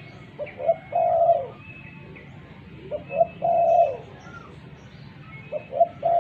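Spotted dove (tekukur) singing: three phrases, each of two short notes followed by a longer coo that drops at its end, about every two and a half seconds. Faint high chirps of other small birds sound in the background.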